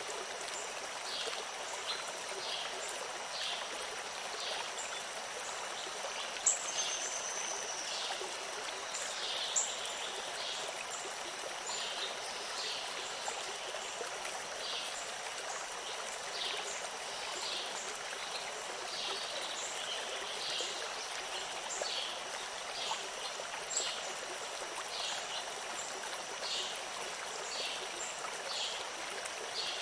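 Running water of a stream, a steady rushing and trickling, with short high chirps repeating about once a second over it.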